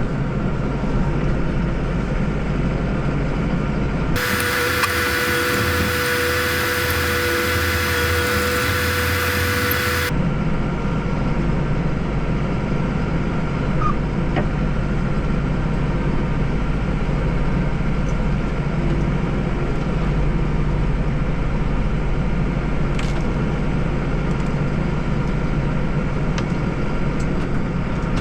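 Deutz-Fahr 5120G tractor engine running steadily under load while driving a front-mount snowblower. About four seconds in, the sound switches for about six seconds to a brighter one with a steady whine, then returns to the engine.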